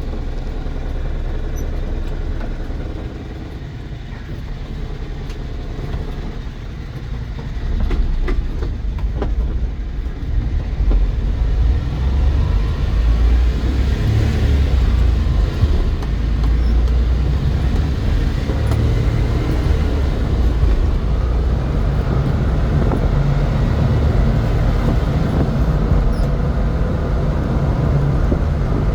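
Honda kei truck driving hard, its engine running with heavy road and wind noise, growing louder about eight seconds in as it speeds up.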